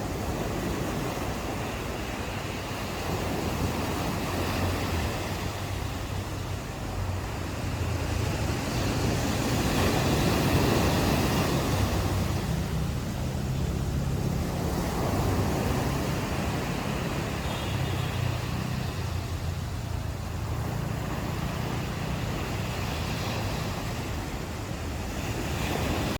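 Ocean surf washing on a beach in a continuous wash that swells and eases, loudest about ten seconds in, over a low rumble of wind on the microphone.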